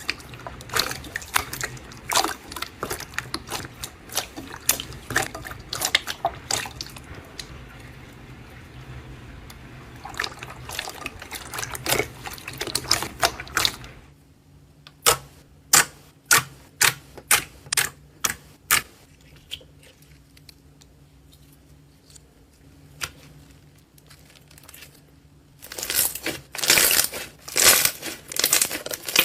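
Slime being squeezed and worked by hand, making wet clicking and popping sounds. The clicks come densely at first, then spaced out for a stretch with a faint low hum beneath, then dense again near the end.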